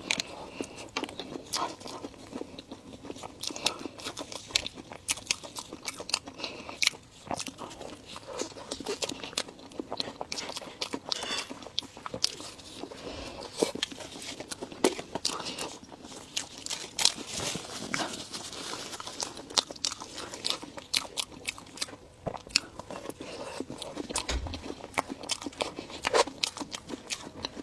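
Close-miked eating: food being bitten and chewed, with many sharp, irregular crunches.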